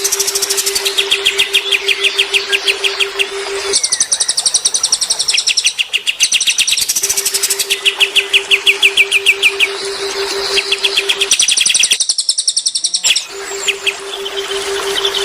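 Cililin and kapas tembak songbirds singing, rapid trills of quickly repeated high notes that switch pattern every few seconds. A steady low hum runs under the song and drops out twice.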